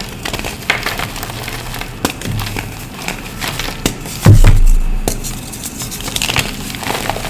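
Reformed gym chalk crumbling and crunching as it is crushed, a dense run of irregular dry crackles, with one heavier low thump a little past the middle.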